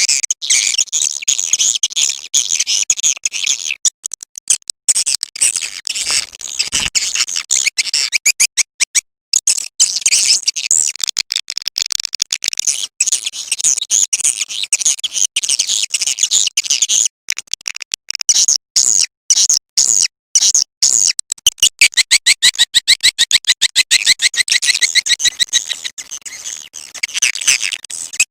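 Swiftlet lure call track: dense, rapid high-pitched chirping and twittering of edible-nest swiftlets. It runs as fast clicking trills, turning into quicker, evenly spaced pulses over the last several seconds.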